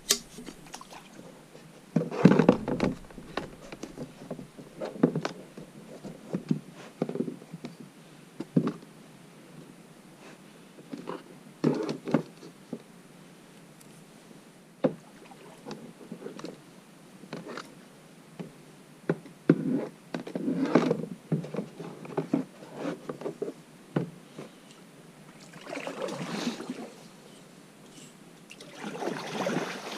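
A kayak being paddled through close mangroves: irregular knocks, scrapes and splashes as the paddle works the water and hits branches and the hull.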